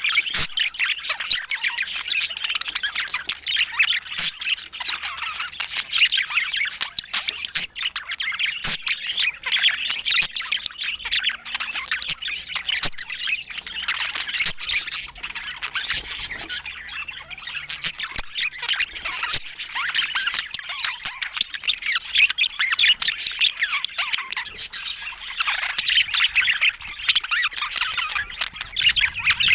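Budgerigars chattering and squawking continuously, many short overlapping chirps and squeaks from several birds at once.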